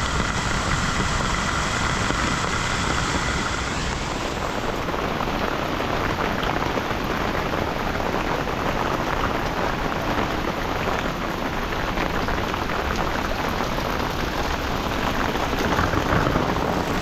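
Steady heavy rain falling, a dense patter of drops. A faint steady whine sits under it for the first few seconds and then stops.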